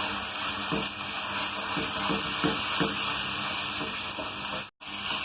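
Plantain and jaggery mixture sizzling in ghee in a hot pan, a steady hiss with a few soft scrapes as it is stirred. The sound cuts out for a moment near the end.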